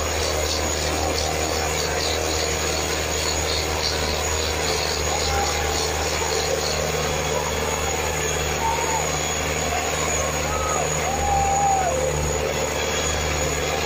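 Preet 6049 tractor's diesel engine running steadily and loudly, with voices calling out over it now and then in the second half.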